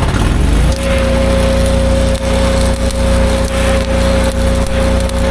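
An engine rises from idle to a steady higher speed within the first second and holds there, under the crackling of arc welding.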